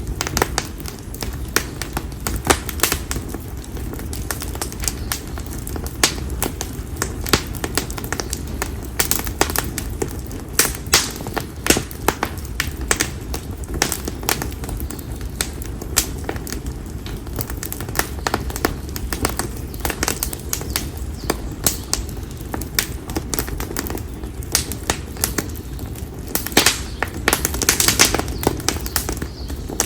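Campfire of split konara oak firewood crackling and popping in irregular sharp snaps over the low, steady noise of the flames. A denser run of louder pops comes near the end.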